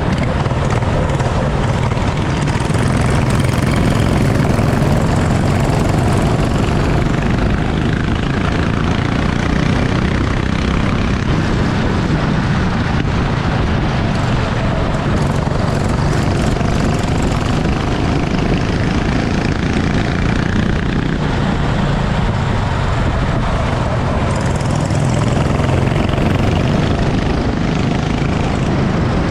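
Racing kart engine running steadily under a dense, even rushing noise, its pitch shifting slightly as it goes.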